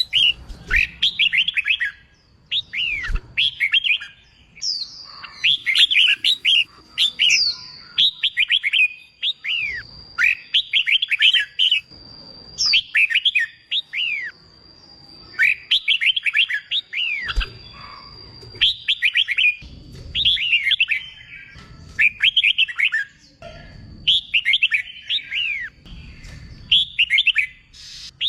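Red-whiskered bulbul song: short, bright, rapidly warbling phrases repeated in bursts every second or two, with brief pauses between them.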